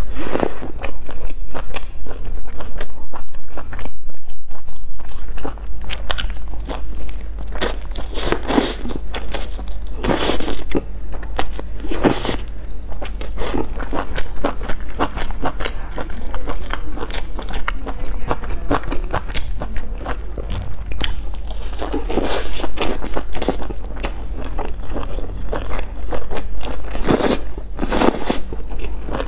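Close-miked biting and chewing of a stuffed flatbread wrap filled with fried chicken, lettuce and enoki mushrooms: a steady run of crisp crunches and wet crackles, with a few louder bites along the way.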